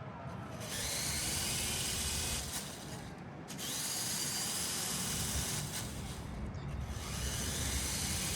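BuWizz electric motor and plastic LEGO gears of a remote-controlled LEGO car whirring at speed in three bursts of a couple of seconds each, the whine rising as each burst starts, over a steady low rumble.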